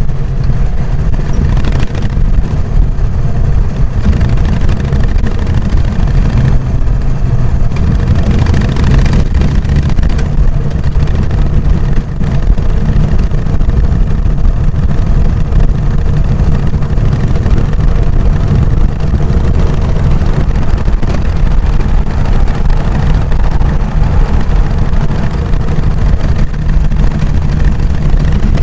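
Harley-Davidson Sportster XL883N Iron's air-cooled V-twin running through its stock exhaust while riding at a steady pace, a loud, even low thrum with no big revs.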